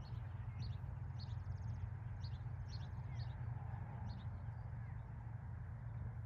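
A songbird chirping over and over, short high calls about twice a second with one brief buzzy trill, over a steady low rumble.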